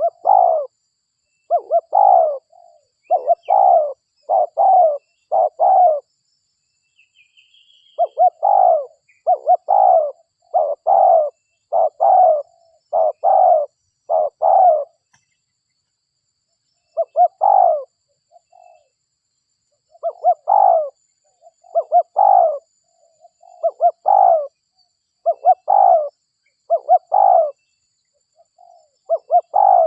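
Spotted dove (derkuku) cooing: loud, repeated short coos in runs of several notes, with brief silent pauses between the runs.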